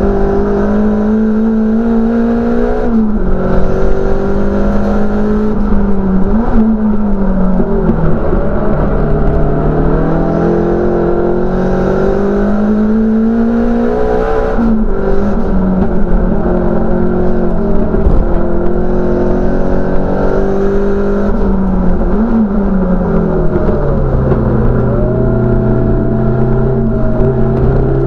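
A race car's engine heard from inside the cabin under racing load. Its note climbs as it revs, then falls back sharply on each gear change or lift, several times over.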